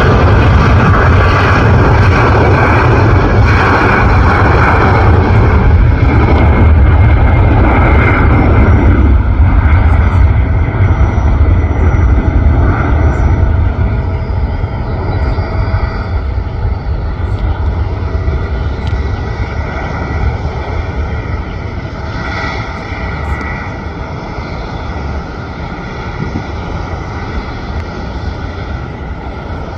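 Jet airliner engines running at high power: a loud roar with a low rumble and steady whining tones. About nine seconds in it drops, then fades gradually as the aircraft moves away.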